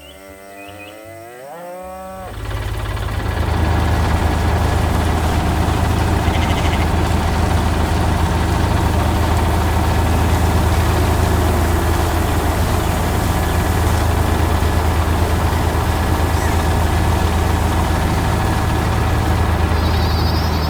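A short pitched sound gliding upward, then from about two seconds in a tractor engine running steadily and loudly with a deep hum.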